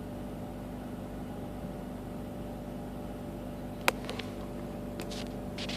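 2004 Mazda RX-8's twin-rotor rotary engine idling unevenly with a stumble, the sign of low rotor compression. A sharp click about four seconds in, then a few fainter ticks.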